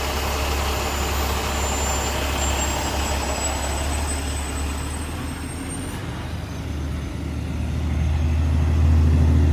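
Vehicles driving past, with a heavy truck's low engine rumble that grows louder near the end.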